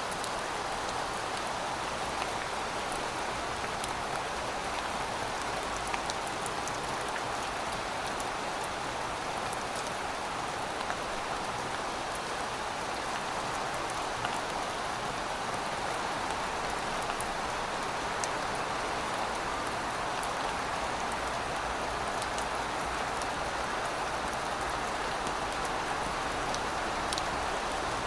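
Heavy rain falling steadily, an even hiss with scattered sharp ticks of individual drops.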